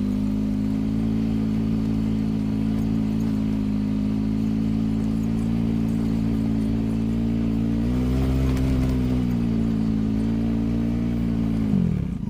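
A motor vehicle's engine running steadily. Its pitch rises for a second or so about eight seconds in, then settles, and near the end it drops as the engine slows.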